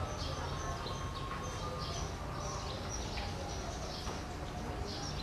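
Small birds chirping in many short, high calls over a low steady rumble.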